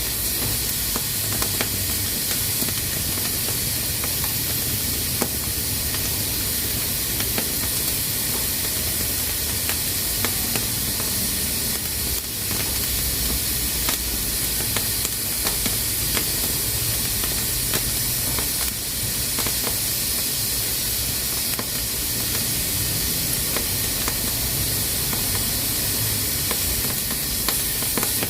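Pressure cooker hissing steadily as steam escapes through its valve, with a low rumble underneath and a few faint clicks.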